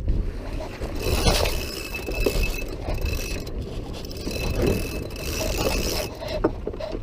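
Small sailboat under way in a breeze: wind buffeting the microphone and water rushing along the hull, the hiss surging twice as the boat meets the waves.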